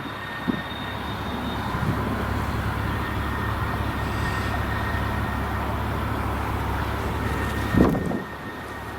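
A train rolling past: a steady low rumble of wheels on rail, with a faint high steady tone above it and a short louder knock about eight seconds in.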